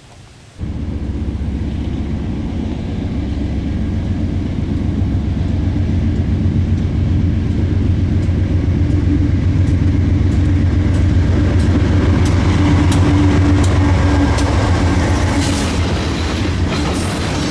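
Freight train passing close, its diesel locomotives giving a steady low drone. From about halfway, wheels clack over the rail joints of the diamond crossing, the clacks growing denser toward the end.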